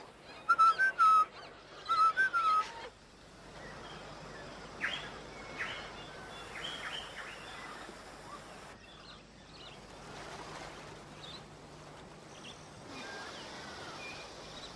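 Forest birds calling: a warbling phrase repeated three times in the first few seconds, then a run of sharp rising chirps, with fainter chirps later. The background noise shifts abruptly a few times.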